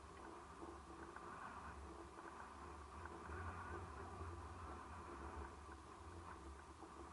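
Faint, steady seaside ambience: a low rumble from a calm winter sea, with a soft hiss over it.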